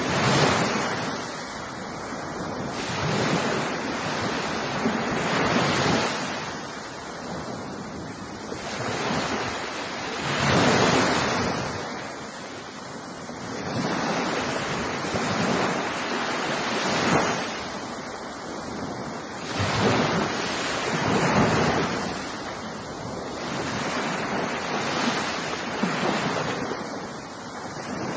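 Ocean surf: waves breaking one after another, the wash swelling and fading every two to four seconds.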